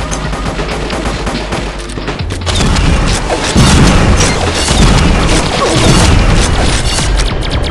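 Consumer fireworks going off in a dense run of rapid crackling reports and booms, growing louder about two seconds in.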